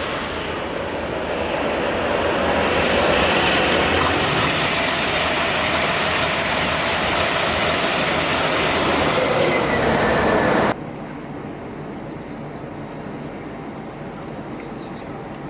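A train passing close by on the line: a loud rushing of wheels on rail that builds over the first few seconds and holds, with a faint steady whine in it. It cuts off suddenly about ten and a half seconds in, leaving a quieter steady background.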